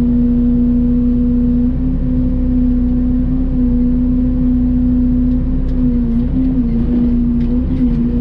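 Mini excavator running steadily at working revs, its pitch sagging briefly a few times as it takes load.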